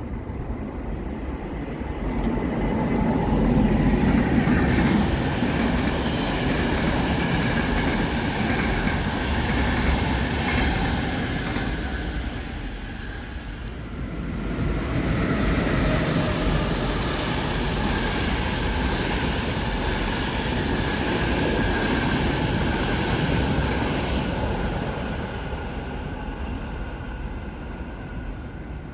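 Passenger train running past on the tracks, a loud rushing rumble with a steady high whine. It swells twice, first a few seconds in and again about halfway, then fades near the end.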